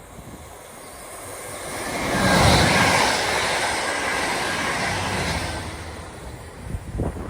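Passenger train passing at speed: the rush of its wheels and air builds over about two seconds, holds loud for about three seconds and then fades away. A few short dull bumps near the end.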